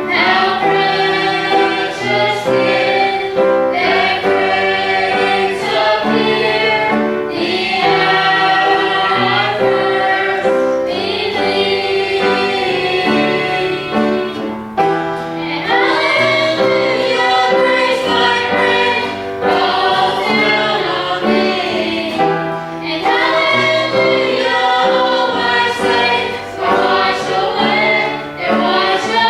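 A group of voices singing a gospel hymn together, with musical accompaniment.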